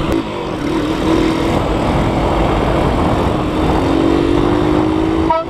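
Engine of a moving vehicle running under heavy road and wind noise, its pitch climbing slowly as it speeds up. At the very end a loud horn starts a rapid series of short blasts.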